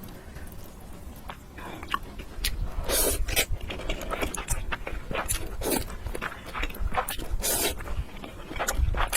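Close-miked eating: mouth chewing and biting into noodles and food, quiet for the first couple of seconds, then a busy run of wet smacks and crunchy clicks.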